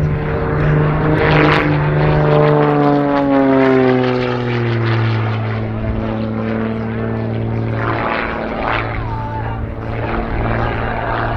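Rebel 300 aerobatic plane flying overhead: its single propeller engine drones, falling in pitch over the first few seconds, then holding a steady note.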